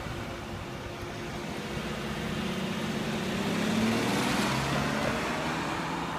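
A car's engine as the car pulls away and drives off. The engine note rises and is loudest about four seconds in, then drops to a lower note as the car moves away.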